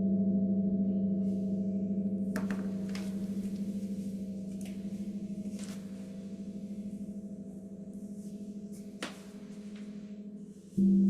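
The deep ringing tone of a struck meditation instrument slowly dies away with a wavering pulse, then is struck again near the end and rings out loud at once. A few faint soft clicks come in between.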